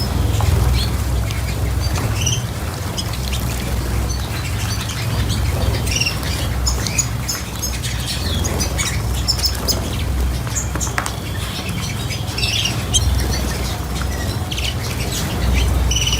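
Small cage birds chirping and calling, many short high notes scattered throughout, over a steady low rumble.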